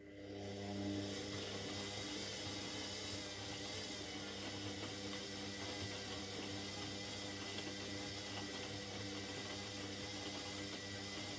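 Indesit 71252 washing machine starting a steady water stage: an electric hum with rushing water swells up over about a second, then holds steady.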